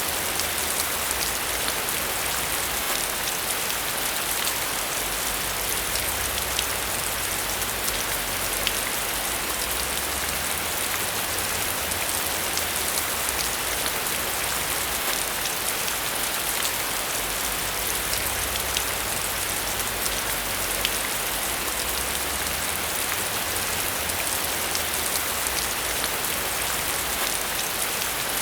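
Steady rain falling on surfaces: an even hiss scattered with the ticks of single drops, under a faint low rumble.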